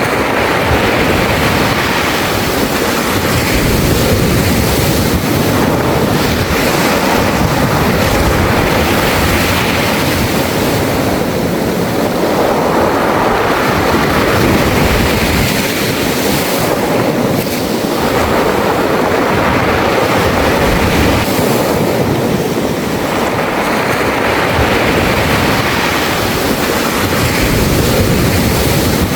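Sea waves breaking on a beach of smooth round pebbles and washing back through the stones. The surf swells and eases about every five to six seconds in a continuous rush of noise.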